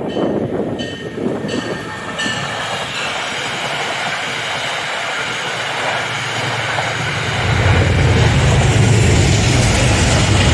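Metro-North diesel push-pull train passing close through a station: coaches rolling by with steady wheel and rail noise. From about seven seconds in, the rear GE P32AC-DM locomotive's V12 diesel engine passes and its low rumble grows to the loudest sound.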